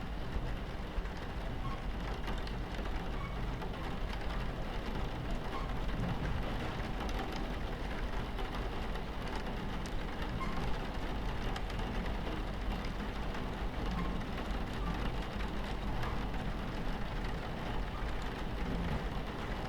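Steady low rumble of a train running on its tracks, with rain on the carriage window and scattered small drop ticks over it.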